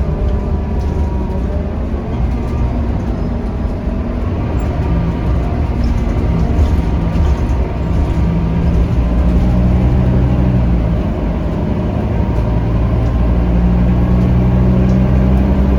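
Scania K310UB city bus's five-cylinder diesel running under way, heard from inside the saloon: a steady low drone whose engine note strengthens and eases, somewhat louder in the second half.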